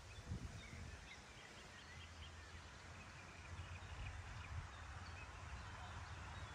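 Small birds singing faintly in short, scattered chirps, over a low steady rumble.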